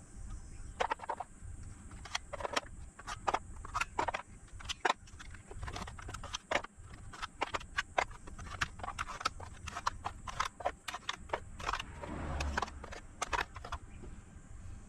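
Irregular light clicks and small metallic clinks, a couple of dozen scattered at no steady rhythm: battery cells and tester probes being handled as each cell's internal resistance is measured.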